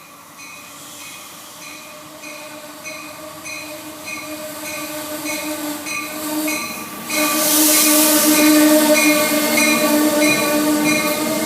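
A train passing on the line. Its sound grows steadily, then gets much louder with a rush of wheel and rail noise about seven seconds in. Steady tones run under it, and a ringing pulses at an even beat of almost two a second.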